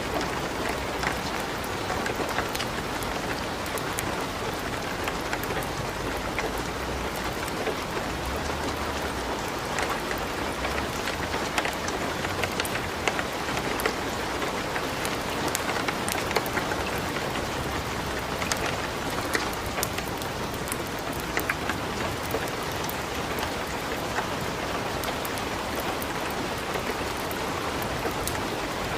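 Light rain falling steadily together with a wood fire burning in a fireplace: a constant even hiss dotted with many sharp crackles and pops.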